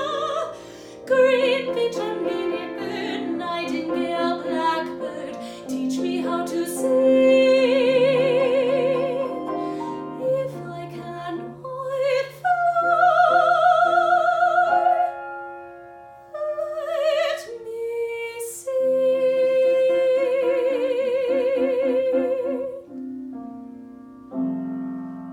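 Female soprano singing a musical-theatre ballad in a classical style, with wide vibrato on long held high notes, over piano accompaniment. The voice stops near the end and the piano carries on alone with steady chords.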